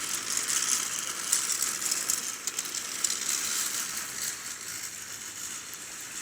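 Toy train running along its track with a fine, rattling clicking that gradually fades away.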